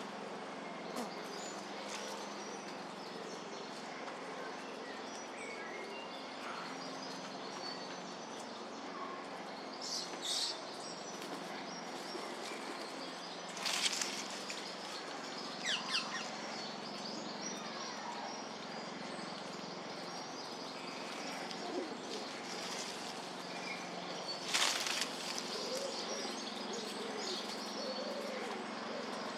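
Birds at a feeder: scattered chirps over a steady background hiss, with a few short bursts of wing flapping about a third of the way in, about halfway and near the end.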